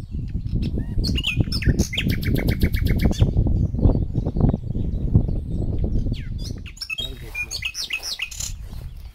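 Small birds chirping: a rapid run of repeated high notes about two seconds in and a cluster of chirps near the end. Under them, a loud, uneven low rumble of wind on the microphone.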